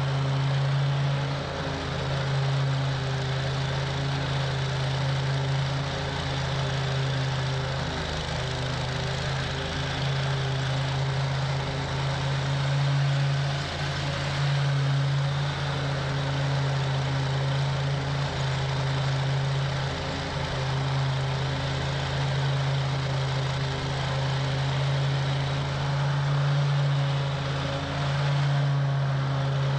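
Toro Grand Stand stand-on mower's engine running steadily with a strong, even hum.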